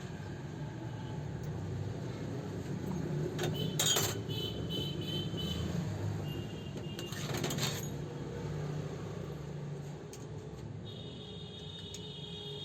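Two short bursts of sharp clicks and knocks, about four and seven seconds in, from tools and machine parts being handled, over a steady low hum.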